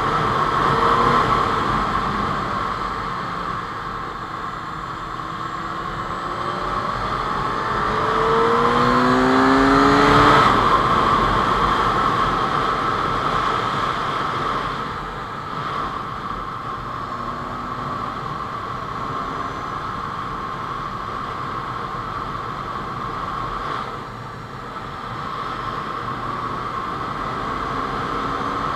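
Honda CBR600F4i's inline-four engine running at road speed under wind noise. The revs climb about eight to ten seconds in, then ease off around fifteen seconds in, with a brief dip near the end.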